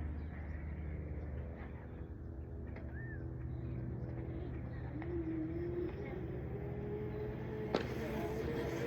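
Child's ride-on motorbike running: a steady motor hum with rolling noise, a wavering whine from about five seconds in, and a sharp click near the end.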